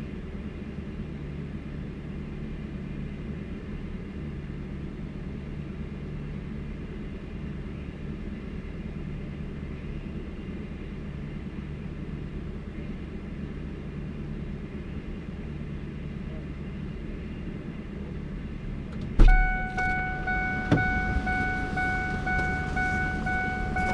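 A vehicle engine idling with a steady low hum. About 19 seconds in there is a single loud thump, and right after it a steady electronic warning tone sounds and keeps going.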